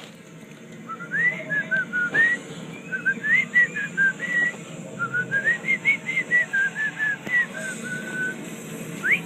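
Male cockatiel whistling a rambling song of short notes that step up and down, in three runs, ending with two quick sharp rising-and-falling whistles.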